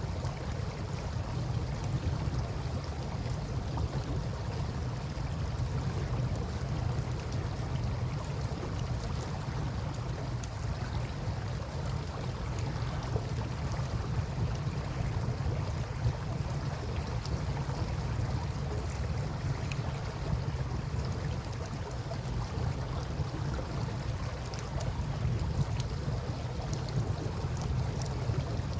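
Campfire burning with scattered faint crackles and small pops, over a steady low rumble of river water and air moving across the microphone.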